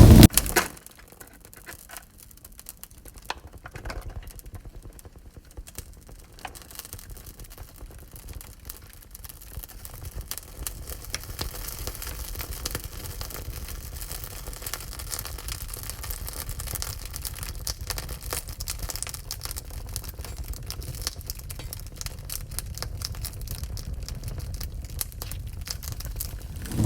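Wood fire crackling in a wood-burning stove: many small pops and snaps over a low rumble, growing gradually louder over the first ten seconds or so. A loud rushing noise cuts off within the first second.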